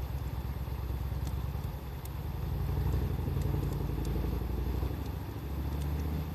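Wood fire crackling with sparse small pops, over a steady low rumble that swells in the middle.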